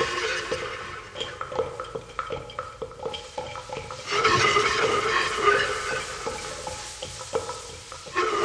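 A prehistoric-style rattle shaken in swelling phrases: a dense rattling of many small hard pieces, with scattered single clicks in between.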